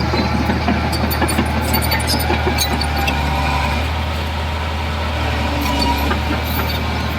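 Heavy diesel engine of earthmoving equipment running steadily, with light clattering over the low drone.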